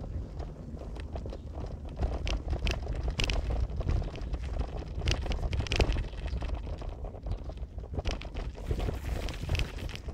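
Car on the move: a steady low road rumble with frequent short knocks and rattles, as from a rough surface.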